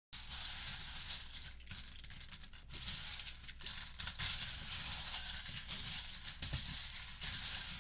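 Many small plastic Lego pieces clattering together as hands rummage and stir through a pile of loose bricks, a continuous dense rattle with a few short pauses.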